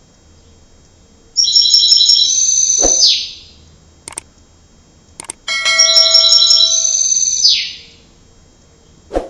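Canary singing: two high, trilled song phrases of about two seconds each, each ending in a falling sweep, with a few short clicks in the pauses.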